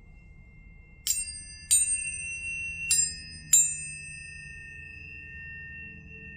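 Tuning forks struck four times in the space of about two and a half seconds, each strike with a bright metallic ping. Afterwards two high, pure tones ring on steadily.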